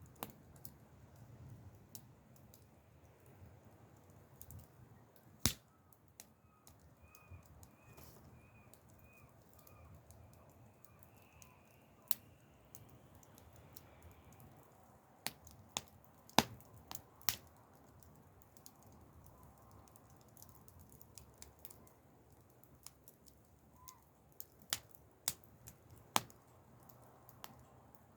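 Wood campfire crackling: sparse, irregular sharp pops and snaps over a low steady background, a few of them much louder.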